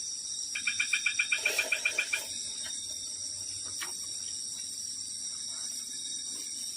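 Steady high-pitched chorus of night insects, crickets among them. About half a second in, an animal gives a rapid run of even chirps, roughly nine a second, for about a second and a half.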